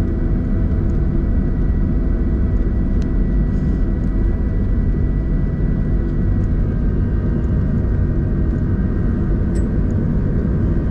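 Cabin noise inside a Boeing 737-800 on the ground just after landing: the CFM56-7B engines and airflow give a steady low rumble with a faint high whine that fades about six or seven seconds in.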